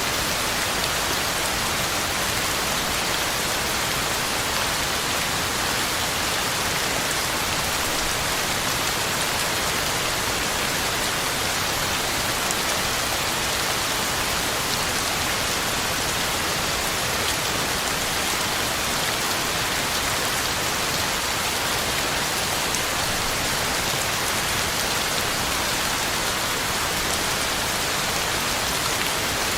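Heavy rain falling steadily, drops pattering on the ground and leaves in a dense, even hiss with no break or change.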